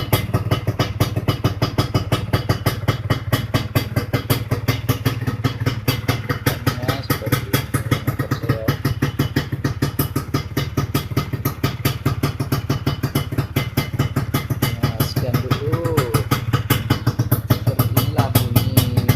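Yamaha F1ZR 110cc two-stroke single-cylinder engine running steadily through a newly fitted bellek (AHM-style) exhaust, with a rapid, even firing beat.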